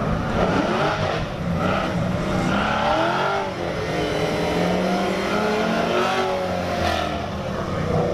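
Engines of LS-powered cars revving and accelerating, the pitch rising and falling over and over.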